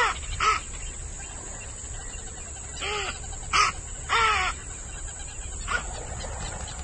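An animal calling: about six short calls, each rising then falling in pitch, coming in loose groups with pauses between. Under them are a steady low hum and a faint high whine.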